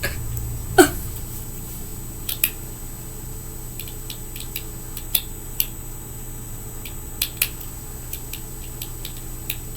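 Scattered light clicks and ticks of small fingerboard parts being handled during assembly, over a steady low room hum.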